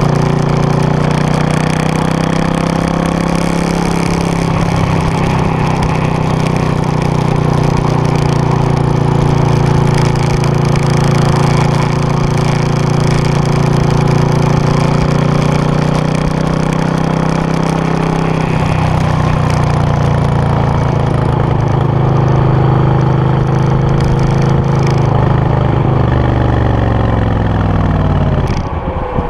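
Suzuki VS800's V-twin engine and exhaust running at a fairly steady engine speed, its pitch wavering slightly, then dropping sharply near the end.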